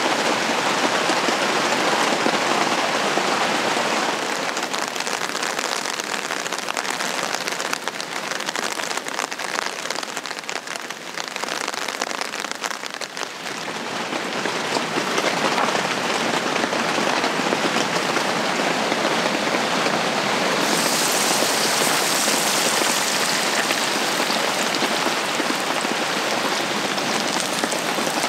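Steady rain falling on a camping shelter's fabric roof, heard from inside, an even dense hiss. It eases a little about a third of the way in, and about three quarters of the way through it turns brighter and hissier.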